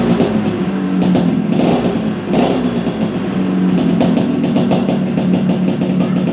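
Yamaha RX-King motorcycle's two-stroke single-cylinder engine running through its exhaust, holding a steady pitch with a few short throttle swells.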